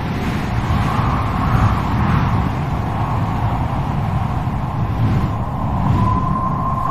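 Strong wind blowing, a steady low rumble with a howling band of whistle on top; near the end the howl narrows into a thin, steady whistle.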